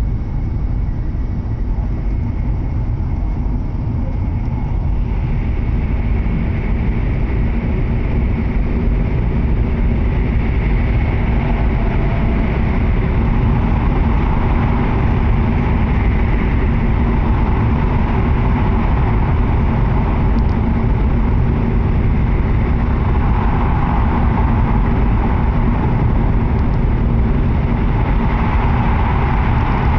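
Cabin noise inside a W7 series Shinkansen car running at speed: a steady low rumble under a broad rushing hiss. The hiss grows louder about five seconds in and swells again in the second half.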